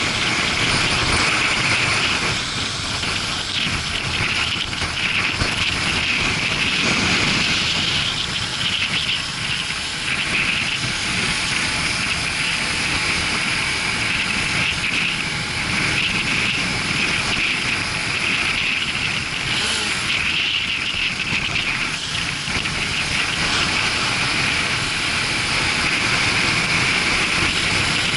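Motorcycle riding sound: the Suzuki GW250 Inazuma's parallel-twin engine running under steady wind rush on the microphone, a continuous even noise with no sharp changes.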